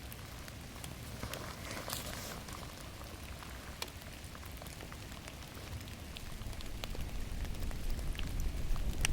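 Rain falling in a forest, with scattered sharp drips among the steady patter. A low rumble builds up over the last few seconds.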